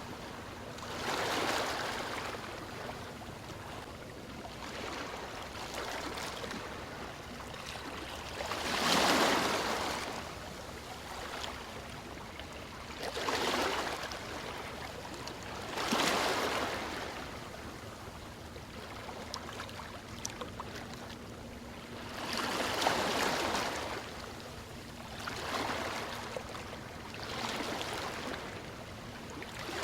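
Ocean waves breaking and washing up the shore, about seven swells of surf rising out of a steady hiss, the biggest about a third and halfway through.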